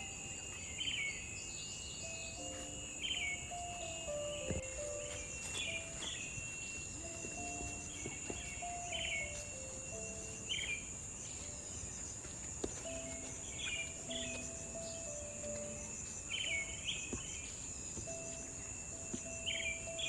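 Insects droning steadily, with short bird-like chirps every second or two, over a soft background melody.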